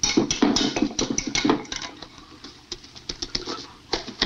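A rapid, irregular run of short clicks and pattering, thinning out after about two seconds.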